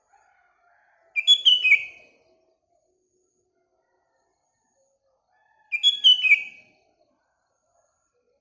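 Sooty-headed bulbul singing: two short, nearly identical phrases of a few quick, falling notes, about four and a half seconds apart, with faint calls of other birds in between.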